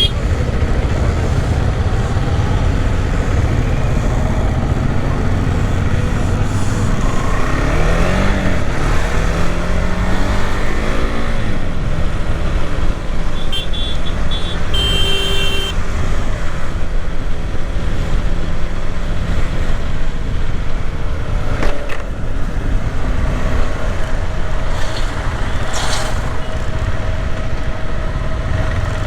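KTM 390 Adventure's single-cylinder engine running under way, with wind rushing over the microphone. The engine pitch falls and rises between about 7 and 12 seconds in. A horn toots briefly about halfway through.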